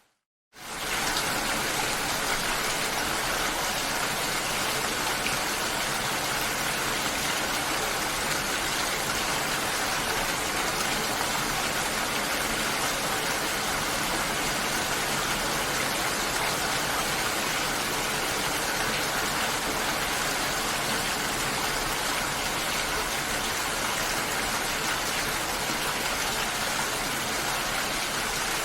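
Steady rushing water with an even hiss, dropping out to silence for about half a second at the very start before returning at a constant level.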